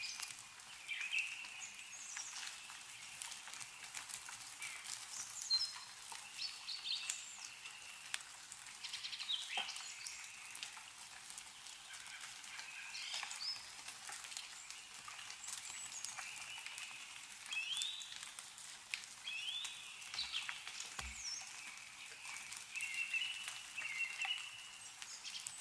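Small birds chirping and calling again and again, short high chirps and whistles, over a faint hiss. Scattered sharp ticks of melting snow dripping from tree branches, with a couple of dull low knocks near the end.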